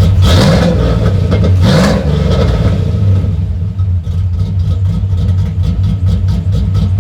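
A 1987 Chevrolet C10 pickup's engine running, blipped twice with short throttle revs in the first two seconds, then idling steadily.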